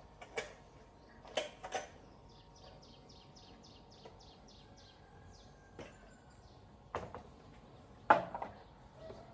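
Scattered sharp clicks and knocks, the loudest about eight seconds in, with a rapid high-pitched chirping trill from a small bird lasting about a second and a half around three seconds in.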